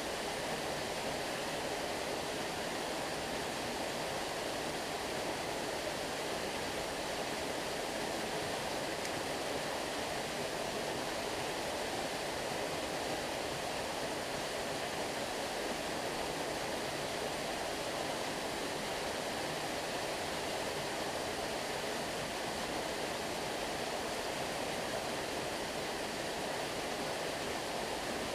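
Stream water flowing, a steady rushing that does not change.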